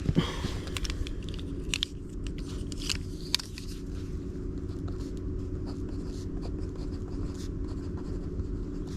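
Pen scratching on a paper index card and the card being handled, with a few short clicks in the first few seconds, over a steady low hum.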